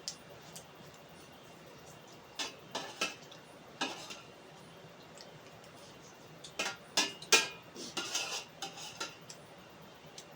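Cutlery clinking and scraping against a dish during a meal: a few separate clinks, then a busier run of clinks and scrapes in the second half.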